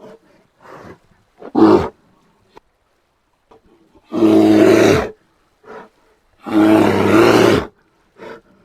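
Brown bear vocalising: several short grunts and a brief loud call, then two long roars of about a second each with a pause between them.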